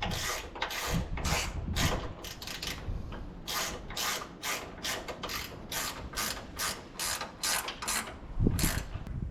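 Hand ratchet wrench clicking in quick repeated strokes, about three a second, as it runs a bolt into a welded nut.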